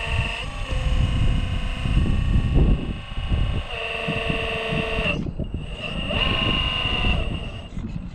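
Scale RC crawler's electric motor and drivetrain whining at a steady pitch in stretches that start and stop with the throttle, over wind buffeting the microphone.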